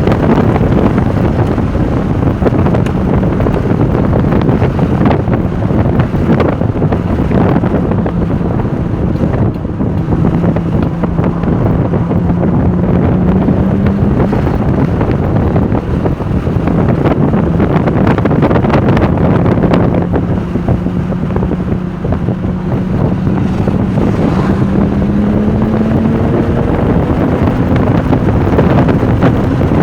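Porsche 996 Turbo's twin-turbo flat-six pulling hard on track, its note climbing slowly and dropping back several times as it goes through the gears. Loud wind and road noise buffet the microphone throughout.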